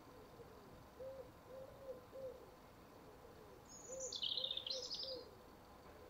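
Faint dove cooing in repeated three-note phrases, short-long-short. A louder, high sweeping bird call from another bird cuts in about four seconds in.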